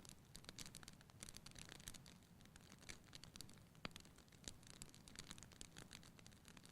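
Wood fire burning in a fireplace: faint, dense crackling and small pops over a low steady rustle of flames, with one sharper pop about four seconds in.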